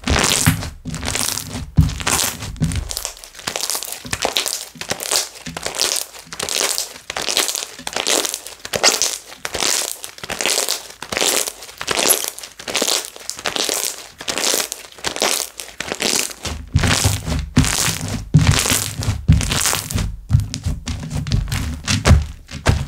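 Slime being squeezed, pressed and stretched by hand, with quick crackling and popping of trapped air bubbles about two to three times a second. Deep thuds run under it at the start and again from about two-thirds of the way in.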